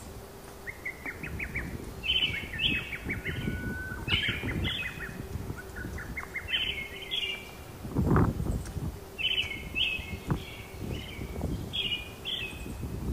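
A songbird singing short chirping phrases, repeated every two seconds or so, over a low rumble with scattered low thumps; the loudest thump comes about eight seconds in.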